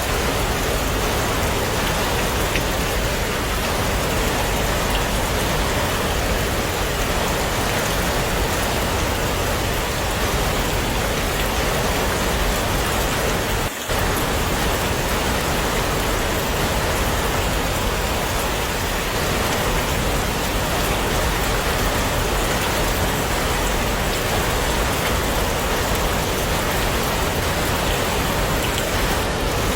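Heavy rain falling steadily, a dense, even hiss of drops, with a momentary drop-out about halfway through.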